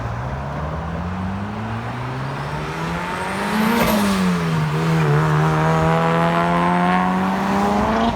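A car engine under load, its pitch climbing steadily for about four seconds, dropping back briefly, then holding and climbing again near the end.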